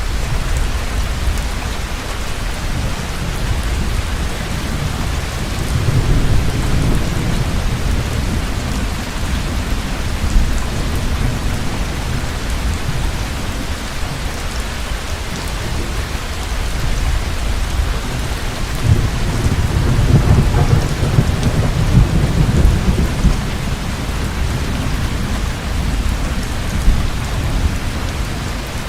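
Heavy rain falling steadily, with thunder rumbling twice: a shorter roll about a quarter of the way in and a longer, louder one past the middle.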